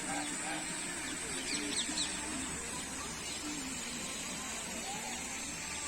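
Birds in an aviary, a mix of many quick high chirps and lower short calls, over a steady high hiss.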